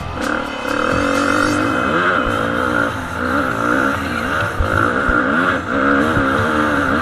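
Motocross bike engine revving hard, its pitch rising and falling quickly over and over as the throttle is worked.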